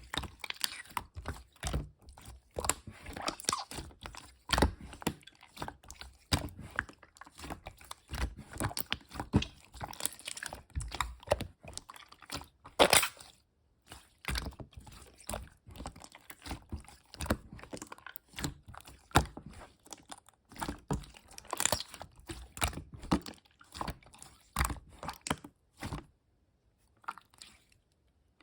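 Slime being squished and pressed by hand: a dense, irregular stream of crunchy clicks and pops, with a short pause near the end.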